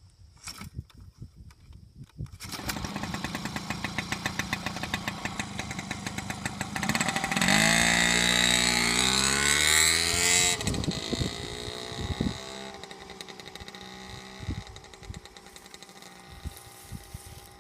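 Small engine of a Coleman mini bike catching about two seconds in and running with an even beat. About six seconds later it revs up, holds high for about three seconds, then drops back and runs quieter toward the end.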